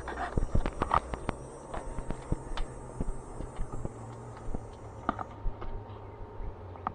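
Scattered sharp knocks and clicks at an uneven pace, the sounds of handling and moving about close by, over a low steady hum.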